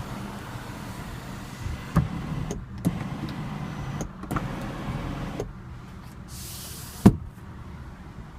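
Power moonroof of a 2014 Mercedes-Benz C350 moving: its electric motor runs for a few seconds with a few clicks and stops, then one sharp clunk about seven seconds in.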